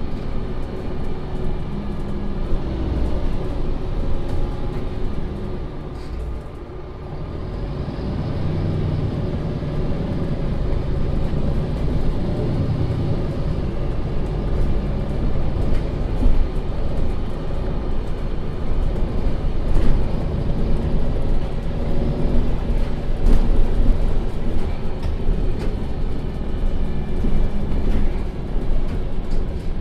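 2015 MAN Lion's City NL 283 city bus driving, its diesel engine and road noise running steadily. The sound eases off briefly about six seconds in, then picks up again.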